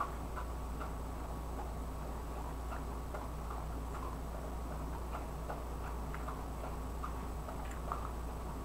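Wet mouth clicks and smacks of someone chewing and sucking up rice noodles, soft irregular ticks a few times a second, over a steady low hum.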